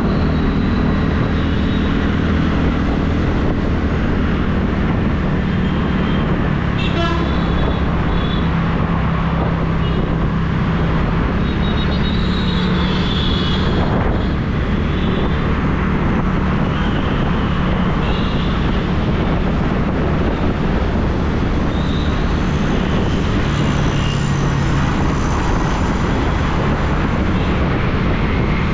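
TVS Ntorq 125 scooter's single-cylinder engine running steadily while riding in street traffic, under road and wind noise. Brief vehicle horn toots sound about seven seconds in and again around twelve to fourteen seconds.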